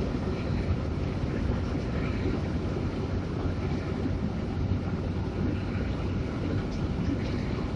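Hino RK8 bus running at steady cruising speed: a constant low engine drone under road and wind noise.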